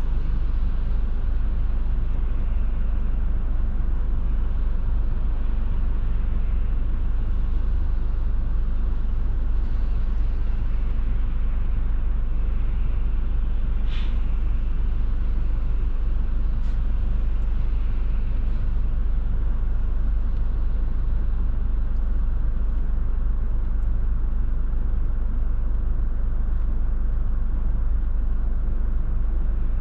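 Steady low drone of a car driving, heard from inside the moving vehicle, with a single sharp click about halfway through.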